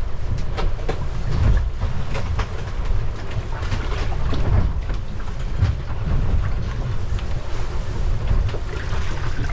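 Strong wind buffeting the microphone aboard a sailboat at sea, a steady heavy rumble with irregular knocks and rattles of the boat's gear scattered through it.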